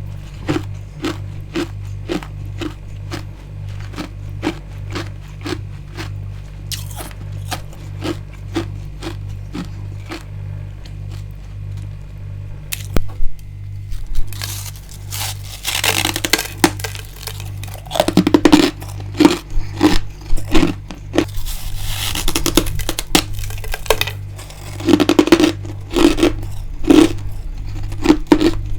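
Freezer frost and ice being chewed, with an even crunch about twice a second. About halfway through come louder, crisper bites and bursts of crunching.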